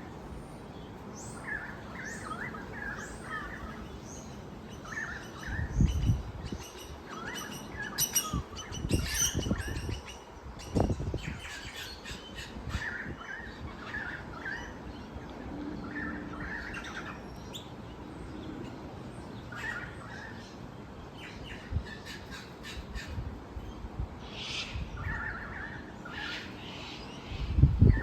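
Several wild birds chirping and calling in short repeated phrases, overlapping one another. A few low thumps break in, the loudest near the end.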